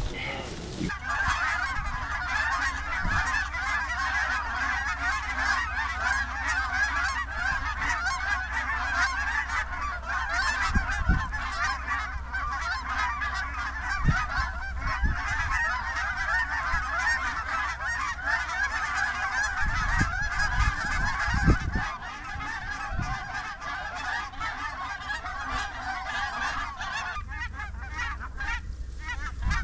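A large flock of geese honking and cackling over one another in a dense, continuous chorus that thins out near the end.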